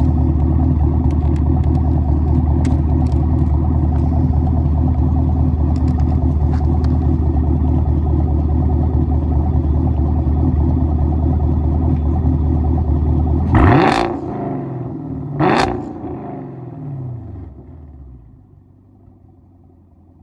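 Chevrolet Camaro SS's 6.2-litre V8 through an AWE Track Edition axle-back exhaust, heard close behind the tailpipes, held at a steady raised rpm with a loud, even exhaust note. About two-thirds of the way through, the throttle is blipped sharply twice. The revs then fall back and it settles to a quiet idle.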